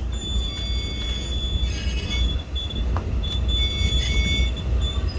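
Steel ramp-hoist sheaves and wire rope on a car ferry squealing as the vehicle ramp is hauled up: several high steady squeal tones that come and go. Under them runs a low steady rumble.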